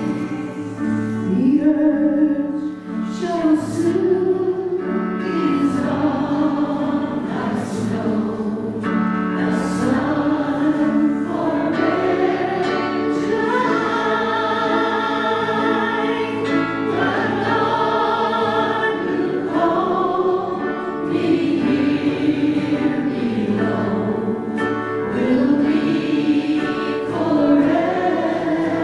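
Church choir singing a hymn in held, sustained chords.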